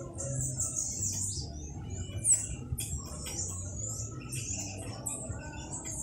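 Small birds chirping in quick, high calls over a low steady hum, with one sharp tap a little over two seconds in.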